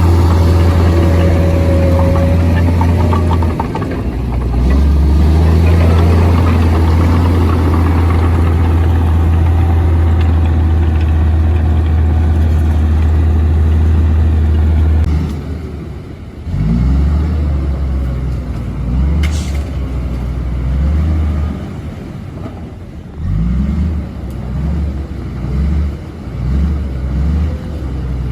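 Komatsu D58P bulldozer's diesel engine running steadily at high revs; about halfway through it drops off, then revs up and down in repeated surges.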